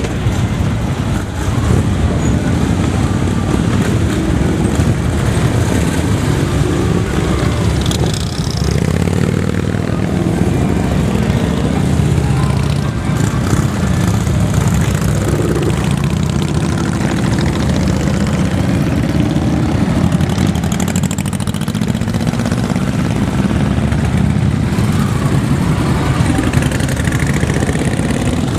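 Many motorcycle engines running together, loud and steady.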